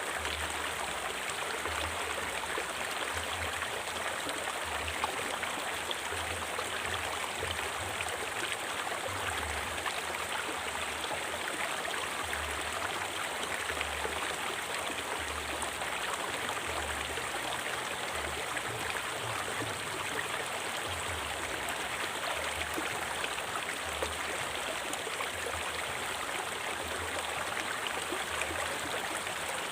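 River water flowing steadily over rocks, a constant rushing with a faint low rumble underneath.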